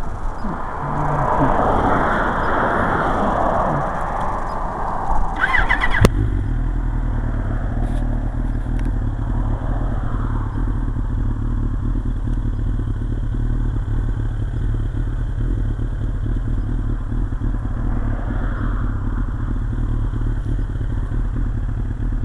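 A Suzuki GSX-R 1100's inline-four engine starts about six seconds in, after a short rising whine, and then idles steadily. A broad rushing noise comes before it.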